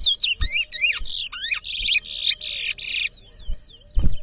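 Towa-towa (chestnut-bellied seed finch) singing a fast run of sliding whistled notes that turns into buzzy trills and stops about three seconds in. A short thump near the end.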